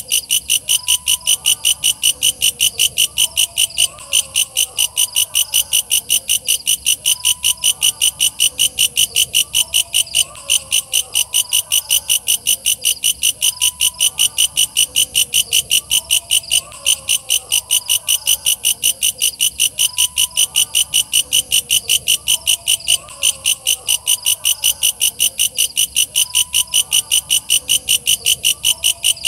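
Walang kecek katydid calling: a loud, steady train of rapid high-pitched pulses, about four a second, with a short break every six seconds or so. Fainter lower-pitched chirping runs underneath.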